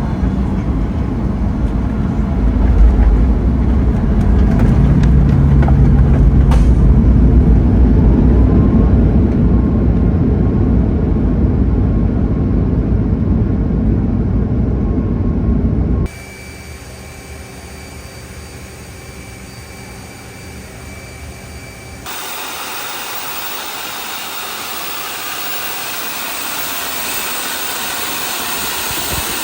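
Steady engine noise, loud and deep for most of the stretch. It cuts off suddenly to a quieter hum with steady tones, then switches to a steady hiss.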